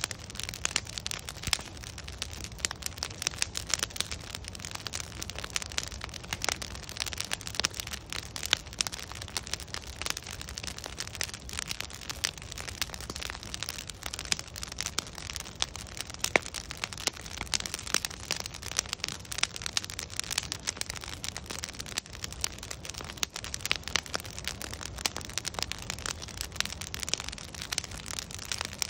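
Wood fire burning steadily, logs crackling and popping in a constant irregular patter of sharp snaps over a low rumble of flame.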